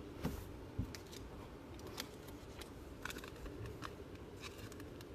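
Trading cards being handled on a table: faint, scattered light clicks and rustles, about a dozen over a few seconds.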